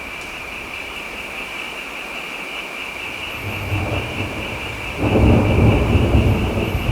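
Steady rain with thunder: a low rumble swells a little past the middle, then a louder roll of thunder breaks in about five seconds in and keeps rumbling.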